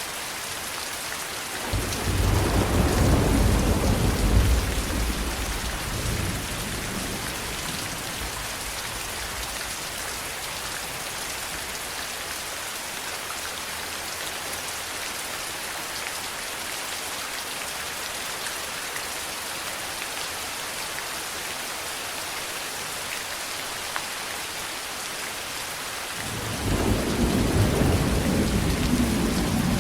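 Steady rain falling with a constant hiss, and thunder rumbling twice: a long low roll about two seconds in that fades over several seconds, and another rolling in near the end.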